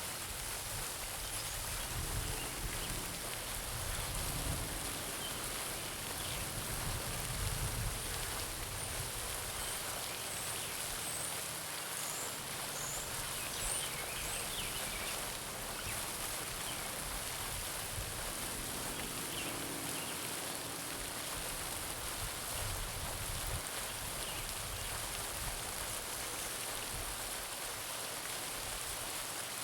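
Garden pond fountain splashing steadily into the water, with a few faint bird chirps about halfway through.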